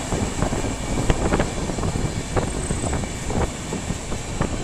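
A train running at speed, heard from on board: a steady rush of running noise with irregular sharp clicks from the wheels over the track, as another train passes on the next line.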